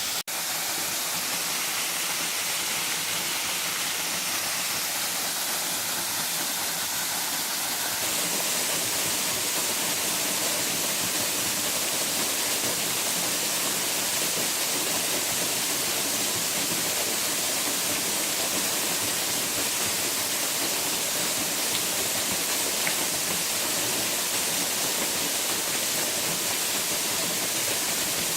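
Waterfall: a steady rush of falling water, a little louder and brighter from about eight seconds in.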